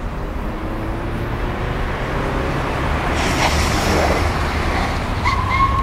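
Mercedes-Benz G-Class SUV engine running as it rolls slowly forward, a low steady rumble that grows slightly louder, with a short high tone near the end.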